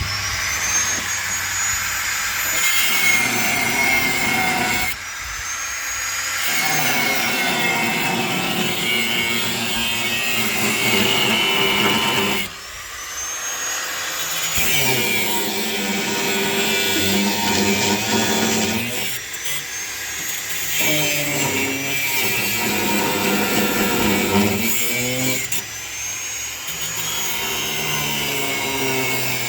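Power cutting tool cutting through bolts, run in about five spells of several seconds with short pauses between them, its high motor whine rising as it spins up at the start of each spell.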